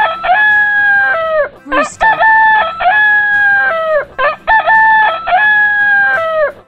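Rooster crowing loudly and repeatedly, about one crow every two seconds: each crow is a few short clipped notes followed by a long held note that drops in pitch at its end.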